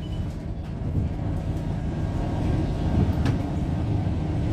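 Scania K230UB city bus in motion, heard from on board: steady low engine and road rumble, with a single sharp click about three seconds in.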